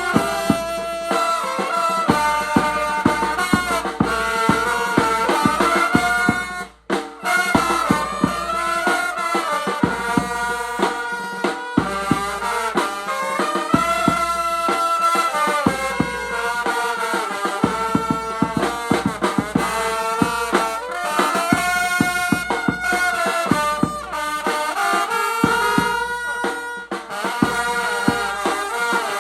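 Vietnamese funeral brass band (nhạc tây) playing a slow melody on brass horns over drums, with a brief break about seven seconds in.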